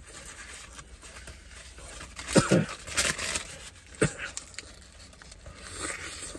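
A person chewing a burger close to the microphone: wet mouth and smacking noises with breathing, broken by a few sharp louder smacks about two and a half, three and four seconds in.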